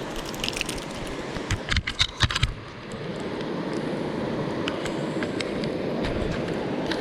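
Creek water rushing steadily in high flow. A quick cluster of sharp clicks and knocks comes about two seconds in.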